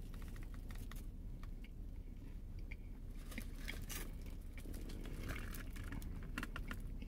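A person chewing a mouthful of crispy fried chicken sandwich, with scattered small clicks and crinkles from the paper and foil wrapper, over a low steady hum.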